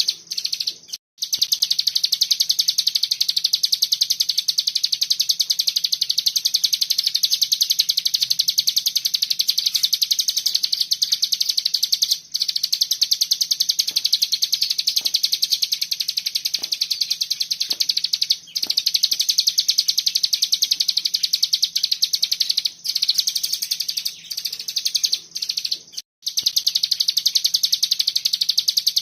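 Cigun songbird singing a tight, continuous, high-pitched rapid-fire trill, the 'ngebren' song. It breaks off for a moment a few times before carrying on.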